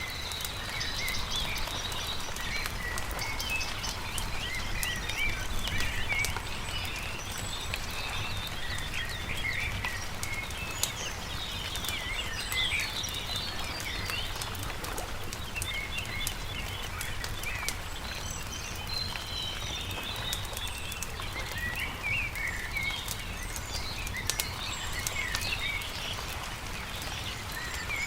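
Many small birds chirping and singing over the crackle and pop of a wood campfire, with a steady low rumble underneath.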